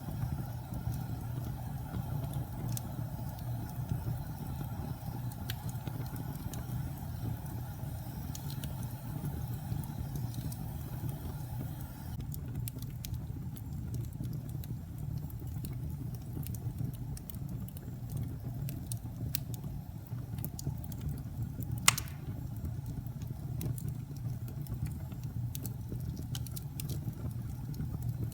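Wood fire burning in a fireplace: a steady low rumble with scattered small crackles and one sharp, louder pop about three-quarters of the way through.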